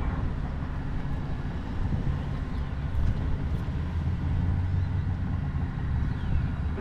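Heavy truck's diesel engine running steadily at low speed as it maneuvers, a constant low rumble.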